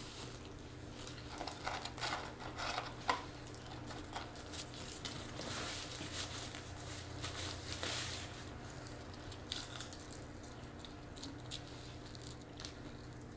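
Close-up eating sounds: irregular wet chewing and smacking of burger and fries, mixed with crinkling of paper wrappers and napkins, over a steady low hum.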